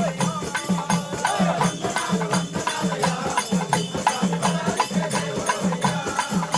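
Devotional bhajan music: a drum keeping a steady beat of about two strikes a second, with jingling tambourine-like percussion and wavering sung melody lines.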